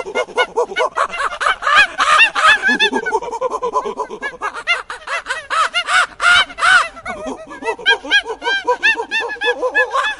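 A flock of birds calling, with many short calls overlapping densely throughout.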